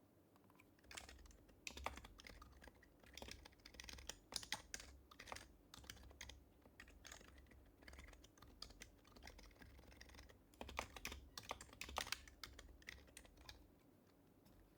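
Quiet typing on a Happy Hacking Keyboard Professional HYBRID Type-S, its silenced Topre switches giving soft keystrokes in quick runs with short pauses. The typing starts about a second in and stops near the end.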